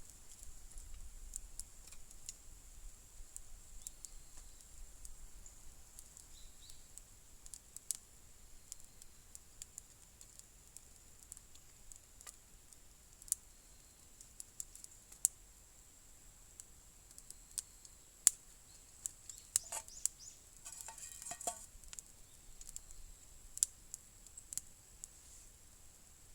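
Wood fire crackling: sparse sharp pops and clicks over a faint steady hiss, with a denser run of rattling crackles about twenty seconds in.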